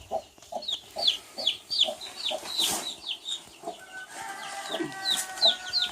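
Baby chicks peeping, a quick run of short high peeps that slide down in pitch, several a second, with the mother hen's low clucks beneath. About four seconds in, a steady high drawn-out note joins them.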